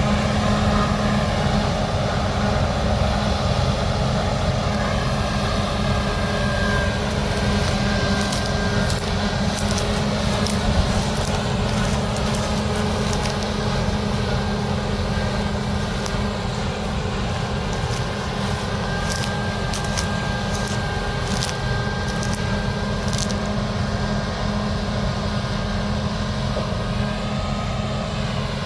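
Heavy harvest machinery running steadily under load in a wheat field, with a strong low engine hum and shifting higher machine tones. From about a third of the way in until near the end, a run of sharp crackling ticks is laid over the running.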